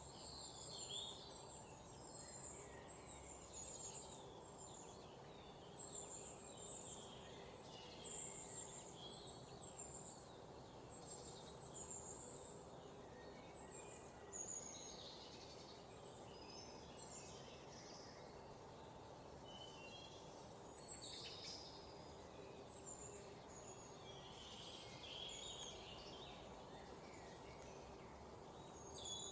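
Many small birds chirping and twittering in quick, short calls scattered throughout, over a faint steady background noise.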